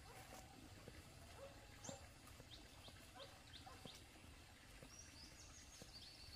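Near silence, with faint high bird chirps: a quick series of short falling notes two to three seconds in, then a thin high steady note near the end.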